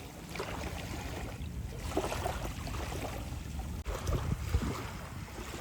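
Sea waves at the shore, with wind buffeting the microphone as a low rumble.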